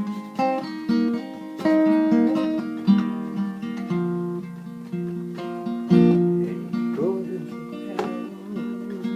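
Acoustic guitar playing an instrumental passage with no singing: chords and single notes ringing out and fading, with a few sliding notes about seven seconds in.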